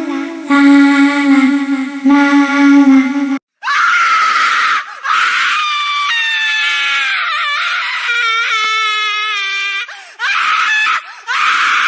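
Scary sound-effect clips played back: a held, droning horn-like tone that cuts off suddenly about three seconds in, then a run of high-pitched screams and shrieks with a few brief gaps.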